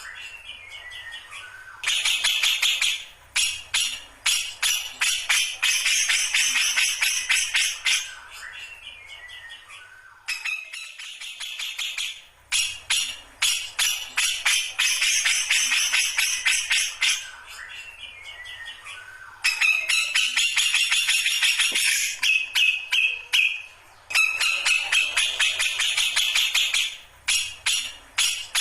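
Grey-cheeked bulbul (cucak jenggot) in full song. It gives long runs of very rapid, rattling chatter lasting several seconds each, separated by short lulls in which descending runs of notes are heard.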